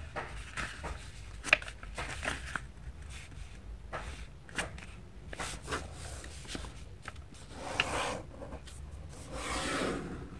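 A sheet of paper being folded by hand: scattered light taps and rustles, and a longer rubbing sound about eight seconds in and again near the end as a fold is pressed flat.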